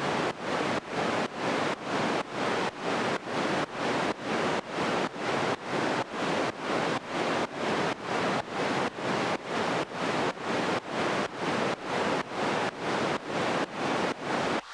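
Synthesizer noise sidechained so that it ducks and swells in a steady pumping rhythm, about two and a half pulses a second.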